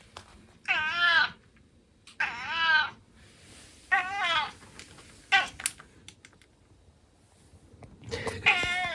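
Domestic tabby cat meowing four times, each meow bending up and down in pitch, with a few faint clicks in a pause about halfway through.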